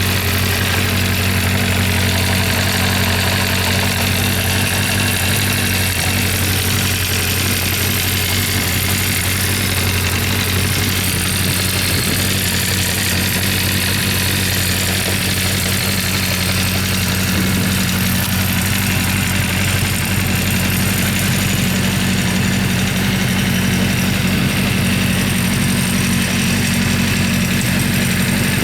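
Honda CB400FOUR's 408cc air-cooled inline-four engine idling steadily at an even pitch.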